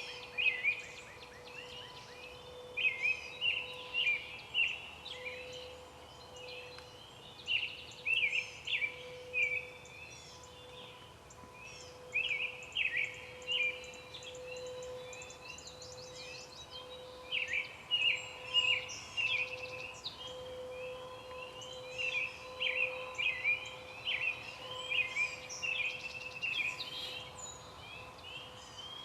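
Songbirds chirping, short quick notes in clusters that repeat every second or so, over a steady faint hum.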